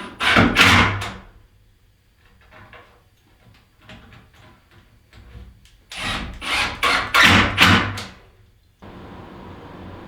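Wooden boards being handled and knocked: a quick run of knocks about half a second in, and another run of several knocks from about six to eight seconds.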